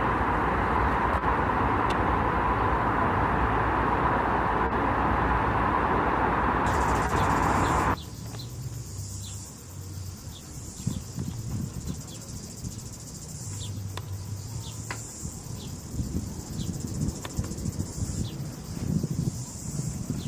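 A loud, steady rumbling noise that cuts off abruptly about eight seconds in, giving way to insects chirping in a high, pulsing chorus over a low background rumble.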